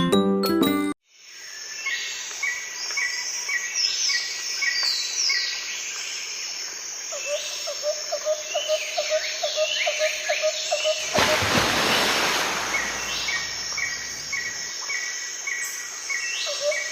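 Keyboard music for about a second, then outdoor birdsong: several birds giving quick whistled chirps and sweeping notes, with a run of lower repeated notes in the middle. About two-thirds of the way through, a rushing noise comes in, eases off, and returns.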